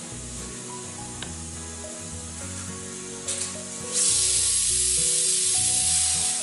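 Pressure cooker venting steam through its weighted whistle valve. There is a short spurt about three seconds in, then a loud steady hiss from about four seconds that cuts off suddenly near the end. This is the cooker's whistle, the sign that it has come up to pressure.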